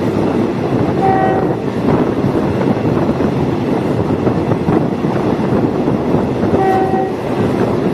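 Diesel multiple unit train running along the track with a steady, loud rumble. Two short high tones sound over it, about a second in and again near the end.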